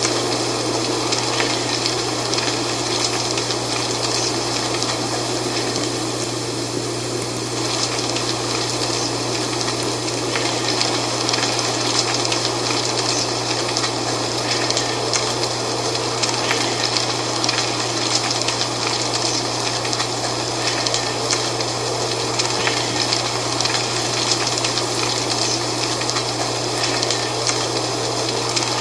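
Dry fallen leaves rustling in the wind: a continuous hiss full of small crisp crackles, over a steady low hum.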